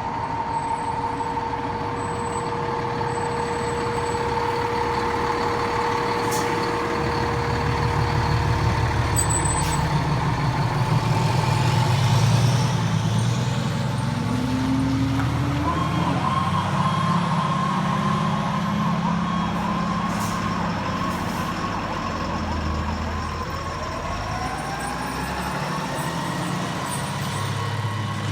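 Diesel engines of a fire engine and an ambulance-type medic unit running as the trucks pull out, the engine rumble building and easing over the middle seconds. A siren begins to wind up near the end.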